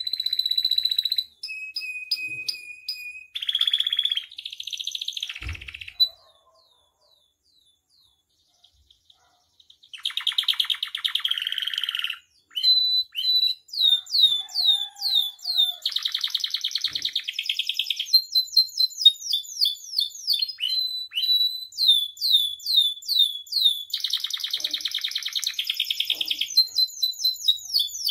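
Domestic canary singing a long, varied song: clear whistles and buzzy trills, a pause of about four seconds, then fast runs of repeated down-slurred notes broken by dense buzzy rolls.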